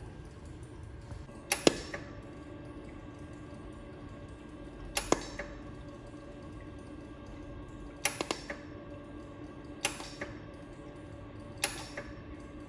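Flash-lamp jewelry laser welder firing single pulses, each a sharp snap, five times at irregular intervals of two to three seconds, some doubled, over the machine's steady running hum.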